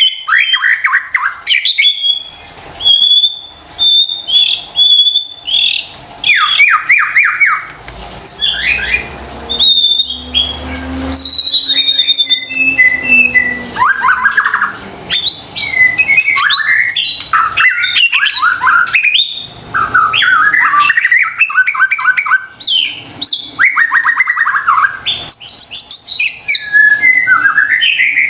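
White-rumped shama (murai batu) singing vigorously, a long run of varied phrases: clear ringing whistles, fast rattling trills and harsh chattering notes, one after another with only short pauses. This is the full, energetic song kept to provoke other shamas into singing.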